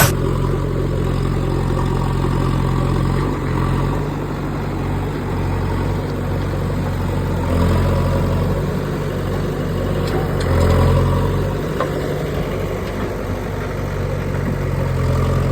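JCB 3DX backhoe loader's diesel engine running steadily, picking up speed briefly twice, about eight and eleven seconds in, as it works.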